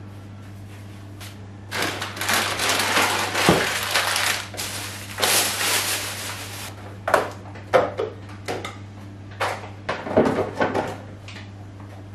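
Kitchen cleaning and tidying sounds: two stretches of rustling, then a string of short knocks and clatters as things are handled and put away, over a steady low hum.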